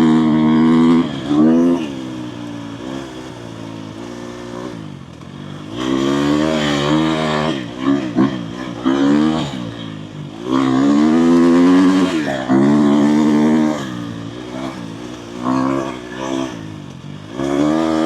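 Dirt bike engine revving up and down as it is ridden over a trail, the pitch rising and falling with each twist of the throttle, with quieter stretches between harder pulls.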